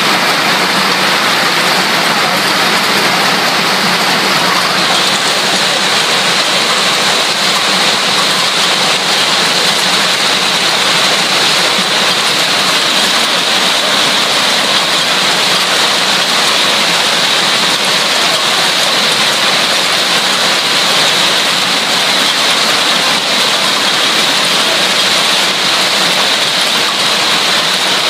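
Hailstorm: dense hail and rain pelting down in a loud, steady, even wash of noise.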